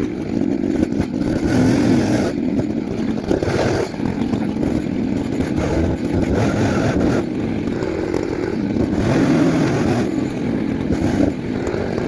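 Chainsaw running under load, cutting into a log, its level rising and falling a little as it bites.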